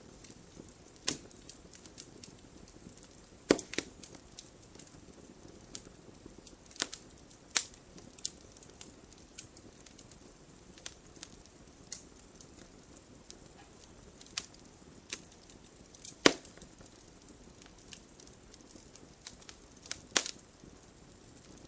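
Wood fire crackling: irregular sharp pops and snaps over a faint steady hiss, with the loudest snap about sixteen seconds in.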